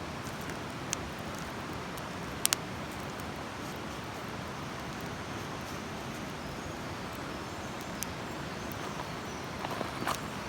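Wood campfire burning: a steady hiss of the flames with occasional sharp crackles, a double pop about two and a half seconds in and a few small ones near the end.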